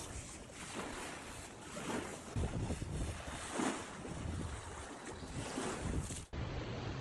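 Rushing outdoor noise of wind and water, with gusts buffeting the microphone and swelling now and then; about six seconds in it cuts off abruptly and gives way to a steadier hiss.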